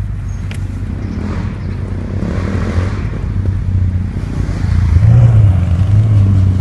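Ferrari California's V8 engine running with a low, steady note as the car pulls away, heard from inside the open-top cabin; about five seconds in the revs rise briefly and it gets louder.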